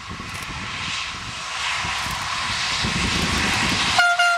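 Diesel railcar train approaching, its engine and running noise growing steadily louder, then a short horn blast, broken once, near the end.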